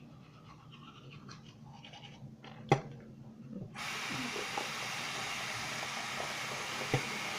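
Toothbrush scrubbing faintly with a sharp click, then a steady rush of water from a sink tap that starts suddenly just past halfway and keeps running.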